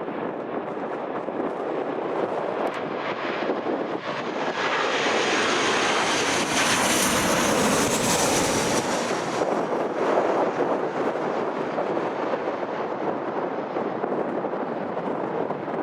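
A fixed-wing airliner's engines passing close by, the noise swelling to a peak about halfway through, with a high whine that drops in pitch as it goes past, then fading. Strong gusty wind buffets the microphone throughout.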